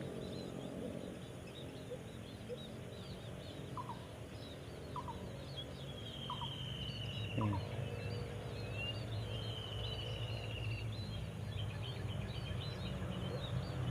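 Wild birds calling: many short, high chirps with a few longer trilled calls about six and nine to eleven seconds in, over a steady low rumble.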